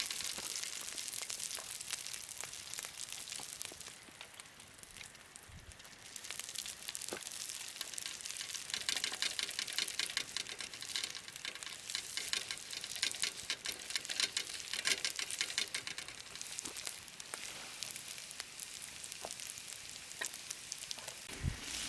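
Food sizzling as it fries in a hot pan, a dense crackling hiss with a brief lull about four seconds in.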